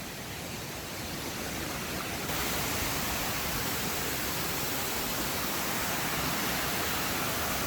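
Waterfall on a stream rushing steadily, growing louder over the first two seconds and then holding even.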